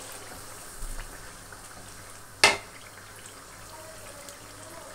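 Freshly added tomato paste frying in oil with onion and ginger-garlic masala in an enamel karahi, a steady sizzle and bubble. A single sharp knock, the wooden spatula striking the pan, about halfway through.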